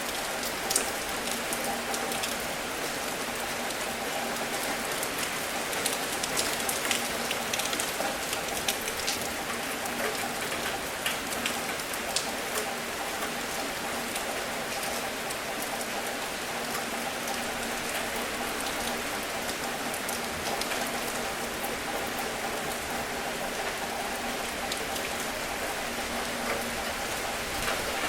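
Steady rain falling, with many individual drops ticking sharply on a surface through an even hiss of rainfall.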